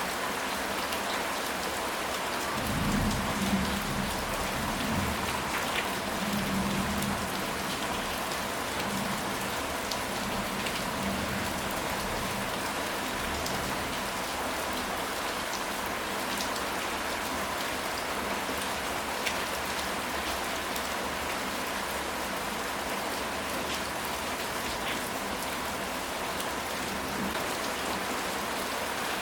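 Steady rain falling on a surface, with a low rumble of distant thunder from about three to seven seconds in.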